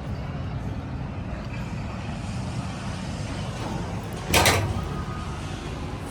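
Steady low rumble of nearby road traffic, with one short, loud hiss about four seconds in that fades within half a second.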